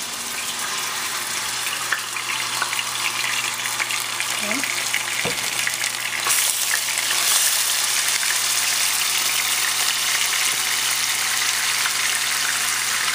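Ginger-garlic paste sizzling and crackling in hot oil in a saucepan, stirred with a silicone spatula. The sizzle grows louder about six seconds in.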